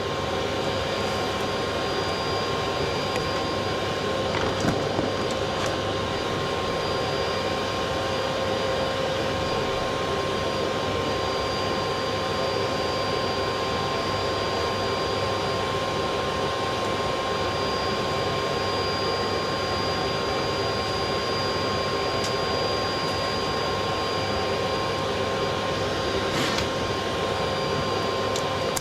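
A vacuum cleaner's motor running steadily with a constant whine, with a few faint knocks.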